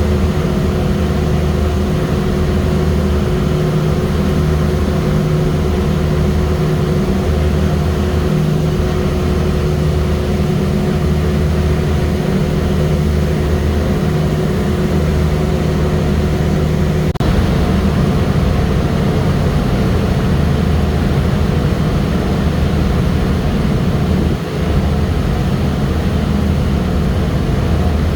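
Heavy engine droning steadily, most likely a passenger ferry's engine; a steady hum over the drone stops with a small click about seventeen seconds in.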